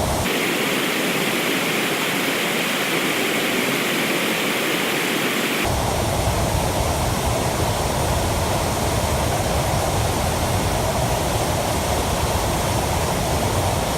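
Waterfall water pouring in a steady rush. About six seconds in the sound changes suddenly to a deeper, fuller rush.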